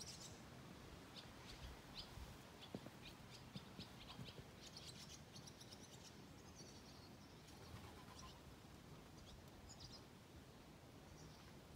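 Faint chirping of small birds, short high notes scattered throughout, over near silence.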